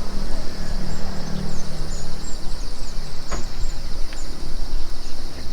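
Outdoor ambience dominated by wind rumbling on the microphone, over a steady high insect drone and a few short bird chirps. A single click comes about three seconds in.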